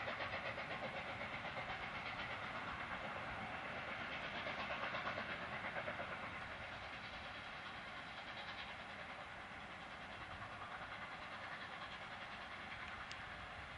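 Steam-hauled passenger train, A1 60163 Tornado with its coaches, running over a stone viaduct: a steady, rhythmic rumble and clatter that fades from about six seconds in as it draws away.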